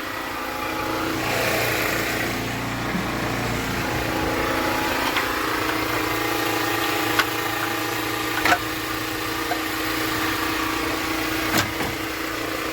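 A steady engine-like hum of an idling motor, with a few sharp metal clicks and knocks as a bolted water pump is pried and broken loose from an engine block.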